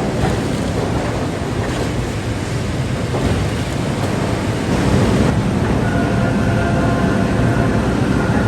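Loud, steady rumbling din of heavy steel-mill machinery. A faint high steady tone joins in about five and a half seconds in.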